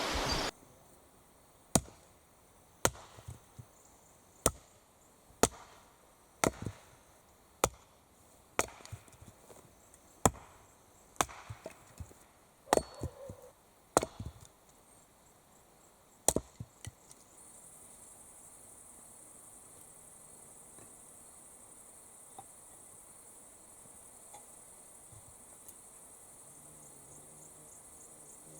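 Wood being chopped: about fourteen sharp, separate blows, roughly one a second, that stop about 17 seconds in. After that a steady high-pitched insect chirring carries on.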